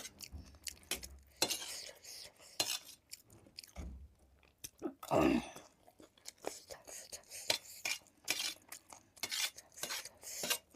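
Close-miked eating: a spoon clicking and scraping against a plate or bowl, with chewing and crunching of spicy puffed-rice chatpate in many short, sharp clicks. One louder, lower sound about five seconds in.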